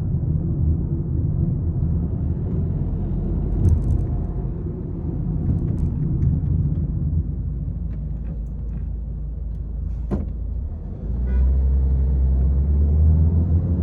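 Peugeot 301 being driven: steady engine and road rumble with a few short knocks and rattles, the engine getting louder about eleven seconds in.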